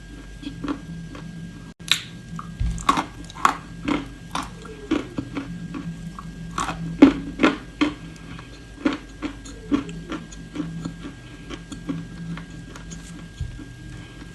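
Close-up biting and chewing of something hard and crunchy: sharp, irregular crunches that come thickest and loudest in the middle stretch, then thin out into softer chewing.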